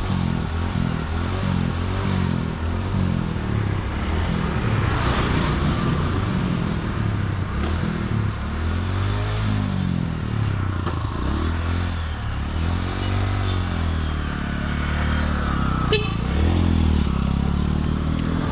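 A motorcycle engine running steadily, its pitch swelling up and down a few times in light revs. A single sharp click sounds about sixteen seconds in.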